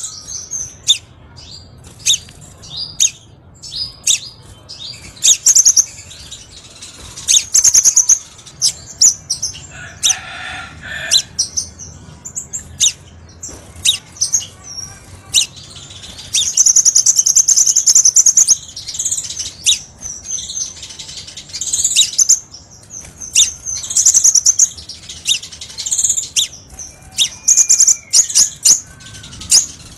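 Crimson sunbird singing: a fast, busy string of high, sharp chirps and ticks, with a trill held for about two seconds a little past halfway.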